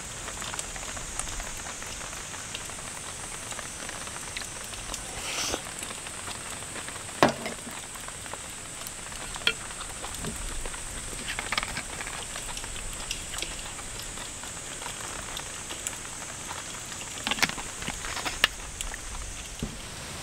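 Steady hiss of heavy rain falling on the tent or tarp, with a few sharp clinks and knocks of chopsticks and dishes on the table, the loudest about seven seconds in.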